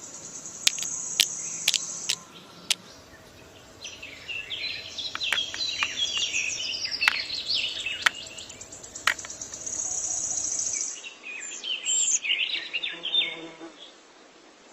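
Outdoor nature ambience: an insect's steady high trill with birds chirping in quick clusters, and scattered sharp clicks.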